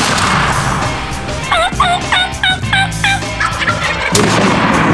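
A wild turkey gobbler gobbling once, a quick rattling run of notes about a second and a half in. A sharp crack at the very start and another about four seconds in are each followed by a second of loud rushing noise.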